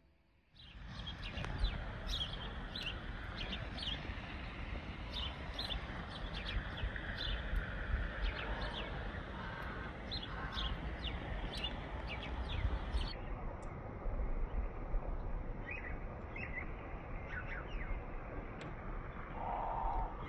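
Small birds chirping and twittering in quick, repeated short calls over a steady low rumble. The chirping is dense for the first two-thirds and sparser after that. One lower, harsher call comes near the end.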